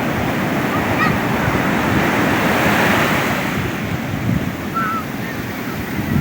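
Sea surf breaking and washing up the beach, a big wave, its rush of water swelling to a peak about two to three seconds in and then easing.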